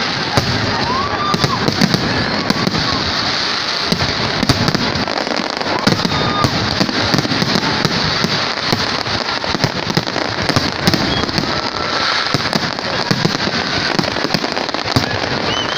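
Aerial fireworks display: many shell bursts in rapid, overlapping bangs, several a second, over a continuous crackling hiss.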